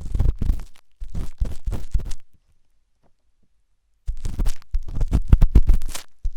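Forceful close-up ear-cleaning scraping: a tool rubs and scratches quickly inside an ear with dense, rapid strokes. The strokes stop for about a second and a half near the middle, then come back louder.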